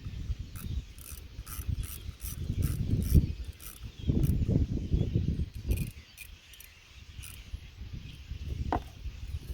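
Ratchet wrench clicking in runs of quick strokes while working the ignition coil bolts on a Toyota 2GR-FE V6, over low knocks and rubbing from the tool and hands. The clicking stops about six seconds in.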